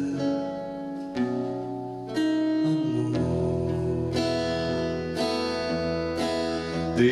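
Live band music: plucked chords struck about once a second and left ringing, with a bass line coming in about three seconds in. A singer sings the word "amor" about four seconds in.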